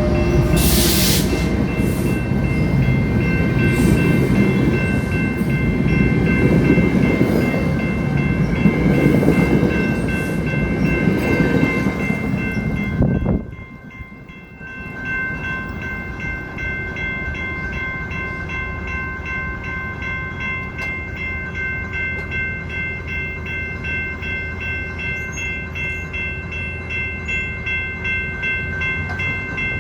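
Metrolink commuter train passing over a grade crossing, with loud rumble and wheel noise, while the crossing bells ring steadily. The train noise drops off abruptly about 13 seconds in, and the bells keep ringing over a lower rumble.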